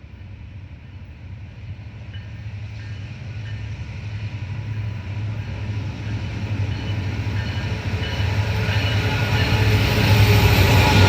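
A diesel-hauled train approaching, its low engine drone and rail noise growing steadily louder.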